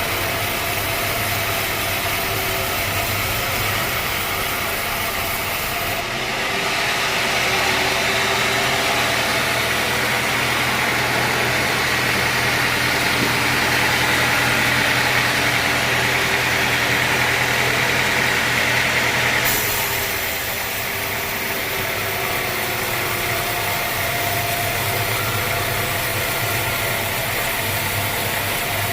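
Sawmill machinery running steadily with an engine hum. From about six seconds in to about nineteen seconds in, the sound changes abruptly to a louder, higher whine, then switches back just as suddenly.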